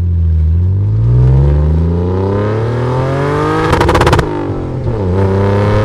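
Car engine revving up, its pitch climbing steadily for about four seconds, then breaking into a rapid stutter at the top before it falls back and starts climbing again near the end.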